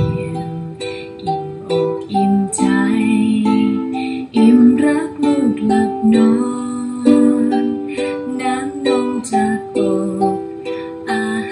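Ukulele strumming the song's chords in a steady rhythm, changing chord every second or two.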